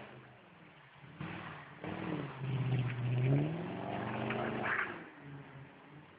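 Audi A8 with a custom exhaust under throttle, its engine note building, then climbing in pitch a little past three seconds in and dropping away near the end.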